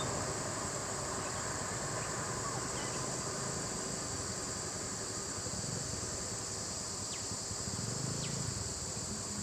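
Steady high-pitched drone of an insect chorus, with a low rumble underneath and a few faint short chirps.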